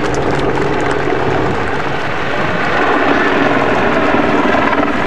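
Apache AH1 attack helicopter flying, with steady rotor and turbine noise.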